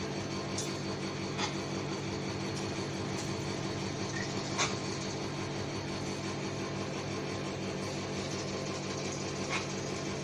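A steady machine-like hum with several fixed low tones, with a few short faint squawks from cockatoos, the clearest about halfway through.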